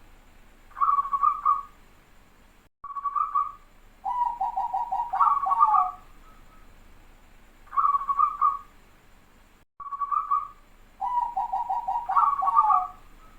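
Zebra dove (perkutut) singing its cooing song in short phrases. Twice it runs into a rapid string of notes that ends on a falling coo. The phrases come close together, the tight 'rapat' style prized in this bird.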